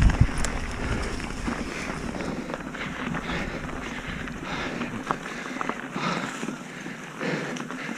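Mountain bike riding downhill on a dirt trail: a steady rush of tyre and trail noise with scattered clicks and rattles from the bike, and wind buffeting the microphone, heavy for about the first second and a half, then easing.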